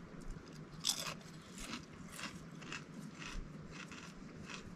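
Crunchy chewing of food close by: a series of irregular crisp bites and crunches, roughly one every half second to a second, the loudest about a second in.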